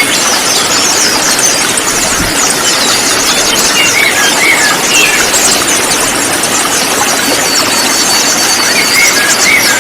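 Many konin songbirds chirping and twittering at once, a dense high-pitched chatter of rapid short notes with a few curling whistled calls, laid over a constant rushing hiss.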